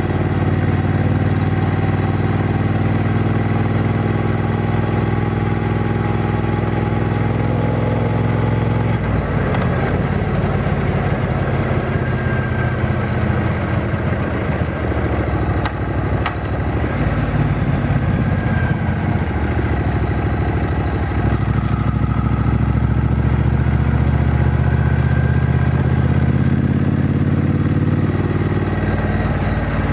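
Triumph Bonneville T120's 1200 cc parallel-twin engine running as the motorcycle is ridden. The engine note changes about nine seconds in, becomes rougher and more uneven, and settles into a steady note again after about twenty-one seconds.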